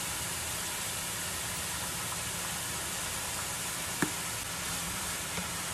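Raw chicken pieces sizzling in hot oil in a frying pan, a steady hiss, with a single sharp click about four seconds in.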